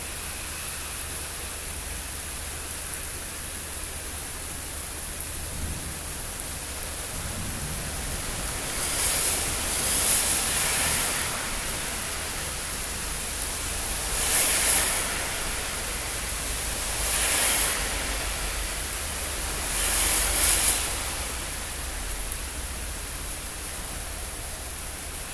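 Steady rain falling during a thunderstorm, an even hiss that swells four times into louder, brighter surges.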